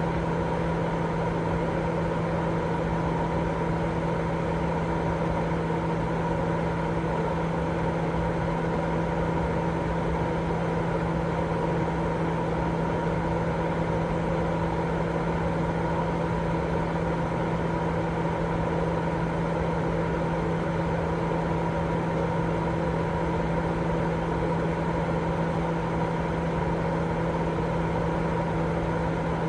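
Continuous white-noise sleep sound: an even, unchanging rushing hiss weighted toward the low and middle range, with a steady low hum and a fainter higher tone running through it.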